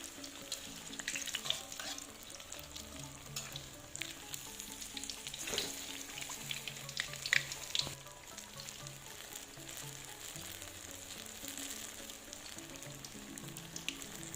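Battered bananas deep-frying in hot oil, sizzling steadily with many small crackles and pops. Soft background music with stepped low notes plays underneath.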